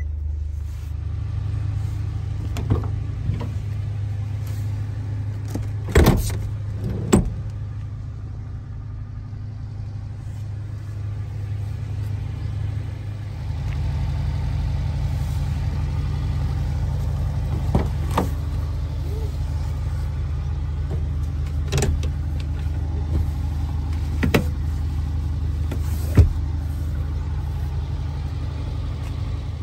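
The small 660 cc four-cylinder turbo engine of a 1995 Mitsubishi Pajero Mini idling steadily, with a handful of sharp clunks and knocks over it, the loudest about six seconds in.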